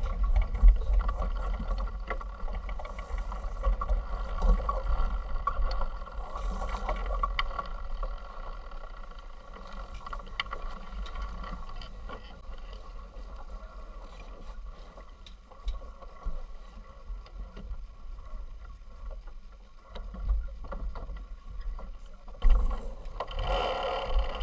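Sailing yacht under way: water rushing along the hull, with a gusting low rumble of wind on the microphone.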